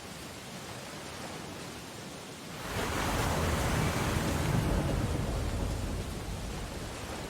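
Ocean surf: a steady wash of waves, with one wave breaking about three seconds in, swelling to a rush and slowly fading.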